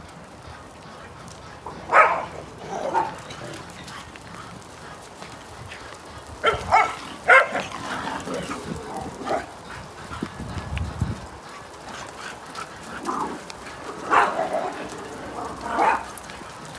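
A dog barking in short bunches of barks spaced several seconds apart.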